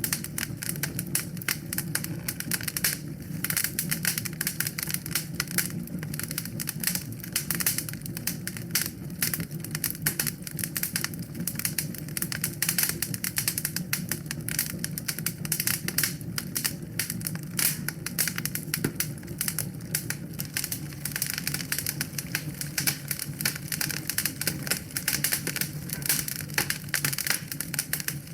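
Wood fire crackling in a fireplace: a dense, steady stream of rapid pops and snaps over a low, even rumble of the flames.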